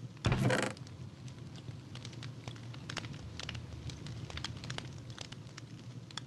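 Campfire crackling, with irregular sharp pops and snaps over a low steady hiss; a brief loud rush of noise comes about half a second in.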